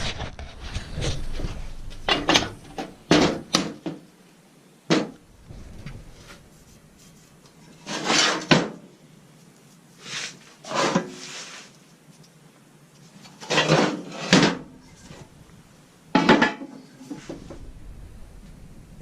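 Metal stove parts being handled and set down: a series of short clanks and scrapes every second or two, some with a brief ring, with quiet gaps between.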